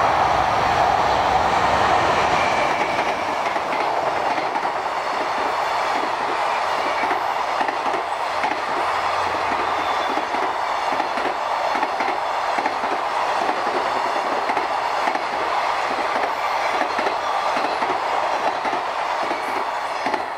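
JR Freight EH800 electric locomotive and its container wagons passing at high speed. The locomotive's rush is loudest in the first couple of seconds, then the wagon wheels keep up a steady, rhythmic clickety-clack on the rails.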